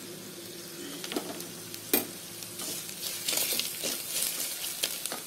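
Onions and spices frying in oil in a clay pot, stirred with a wooden spatula: a steady sizzle with scraping and light knocks. There is one sharp knock about two seconds in, and the stirring grows louder from about three seconds in.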